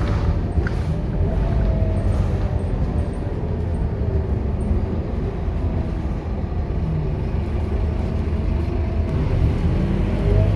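Scania K230UB city bus's diesel engine running under way: a steady low rumble with a faint whine that rises and falls in pitch several times.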